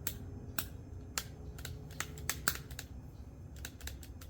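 A string of sharp, irregular clicks and light taps of small hard objects, some coming in quick clusters.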